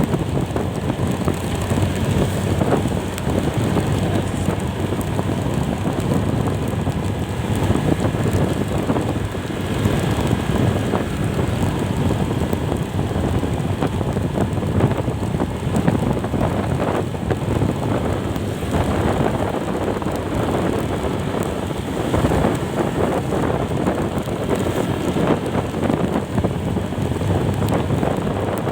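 Wind rushing over the microphone on a moving vehicle, over steady engine and road noise.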